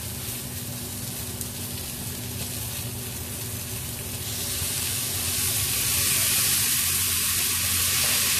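Chopped onion, bell peppers and tomato sizzling in a hot frying pan. The sizzle grows louder about halfway through as oyster sauce is poured onto the hot vegetables.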